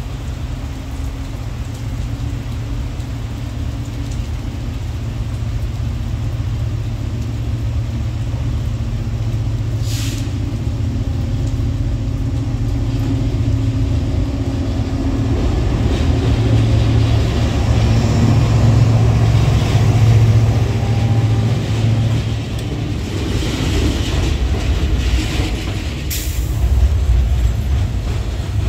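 Diesel-electric freight locomotive (ES43BBI) working under load, a steady low engine drone that grows louder as it approaches and passes. Near the end the loaded freight wagons roll past, with a short sharp hiss shortly before.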